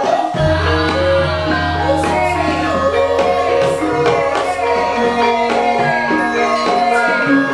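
Banyumas-style Javanese gamelan ensemble playing, with kendang hand-drum strokes, ringing metallophone notes and singing. A deep low gong stroke sounds about half a second in and rings on.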